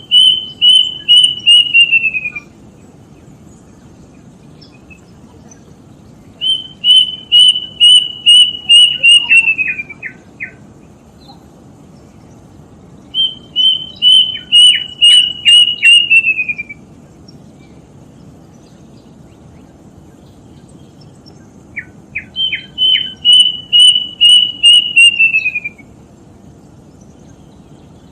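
Kedasih cuckoo singing: four bouts, each a run of about eight to ten clear whistled notes repeated at an even pace, holding pitch and then sliding downward in the last notes. A few short, lower notes follow the second bout and come just before the fourth, over a steady low background hiss.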